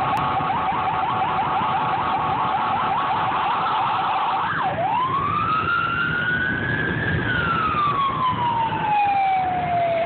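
Emergency vehicle siren sounding a fast yelp for about four and a half seconds, then switching to a slow wail that rises and then falls, over steady low vehicle noise.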